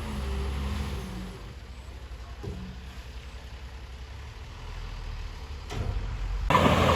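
Heavy diesel engine of construction equipment running with a steady low drone. It quietens after about a second, then near the end the sound abruptly becomes much louder and harsher.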